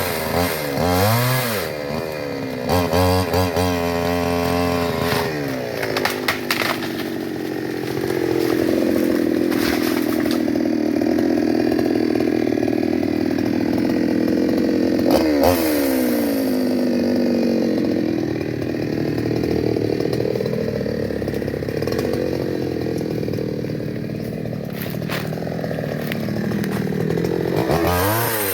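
Two-stroke chainsaw running, its engine revving up and down several times in the first few seconds. It then holds a steady high speed for most of the time, with brief rev swings about halfway through and again at the end.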